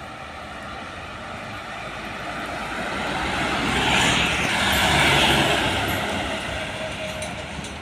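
A motor vehicle passing by on the road: engine and tyre noise grows louder, peaks about halfway through, then fades away.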